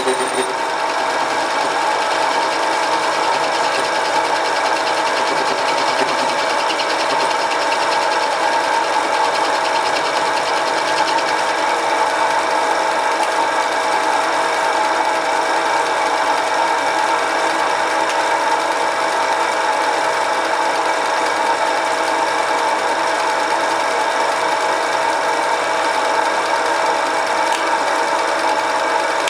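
Homemade mini lathe driven by a 1 hp, 750 W single-phase motor, running steadily through a test cut with an even mechanical whine.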